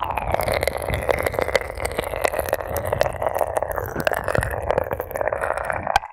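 Ear pick tip scratching and rubbing in the ear of a binaural ASMR microphone: a dense, crackly scraping that stops abruptly near the end.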